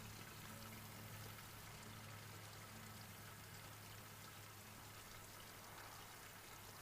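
Near silence: a faint, even outdoor hiss with a steady low hum underneath.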